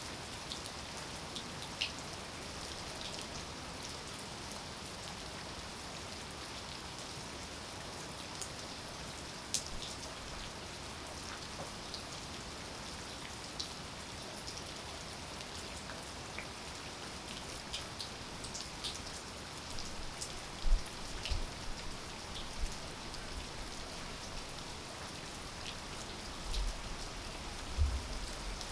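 Steady rain falling, with individual drops tapping close by as scattered sharp ticks. A few dull low thumps come in the last third.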